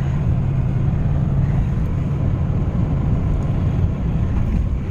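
Steady low engine and road rumble heard from inside the cabin of a moving vehicle.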